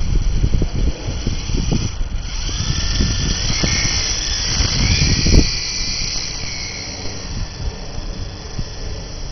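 Blade CX2 coaxial electric RC helicopter's motors whining, the pitch rising and falling a few times in the middle, with wind buffeting the microphone.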